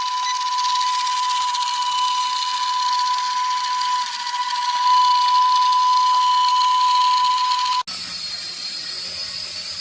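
Small electric motor of a toy remote-control helicopter whining at a steady pitch over the hiss of its spinning rotors. About eight seconds in it cuts abruptly to a quieter, different recording.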